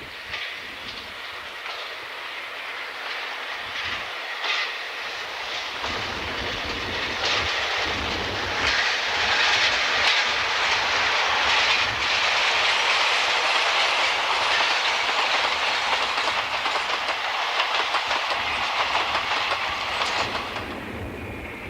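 Mixed train hauled by two DE10 diesel locomotives running by, its wheels clattering over rail joints. The noise builds to a peak in the middle, then drops off sharply near the end.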